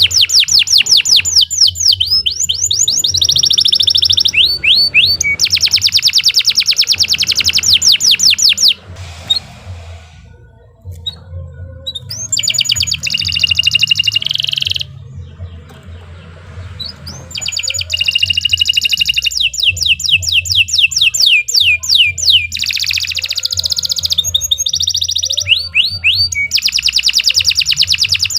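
Domestic canary singing long rolling trills of rapidly repeated high notes, with quick downward-sweeping notes between phrases. The song drops to a softer lull about a third of the way in, picks up briefly, eases again around the middle, then returns in full.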